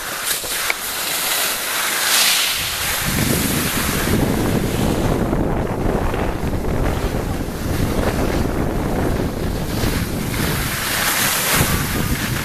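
Wind rushing over the microphone while riding downhill on skiboards, turning into a heavy low rumble about three seconds in. The hiss of the skis sliding on snow swells and fades through the turns.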